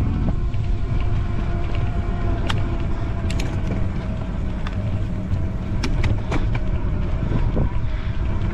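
E-bike motor whining steadily under heavy load on a steep climb, with wind buffeting the microphone and a few sharp clicks from the bike.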